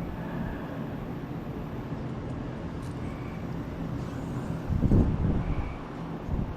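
Steady hum of a running electric fan, with a short louder low rumble about five seconds in.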